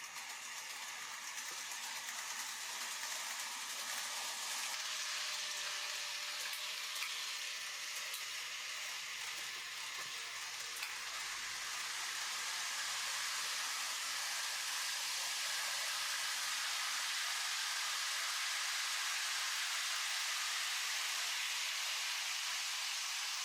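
Model Shinkansen trains running on the layout's track, an even rolling hiss of wheels on rails and motors. It grows louder over the first few seconds, then holds steady.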